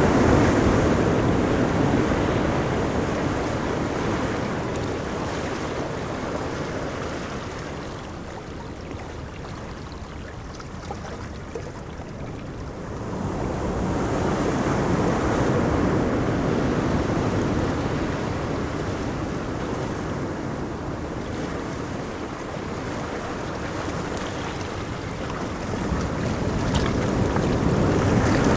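Ocean waves washing onto a beach, one wave after another. The surf swells at the start, again about 13 seconds in, and again near the end, ebbing between breaks.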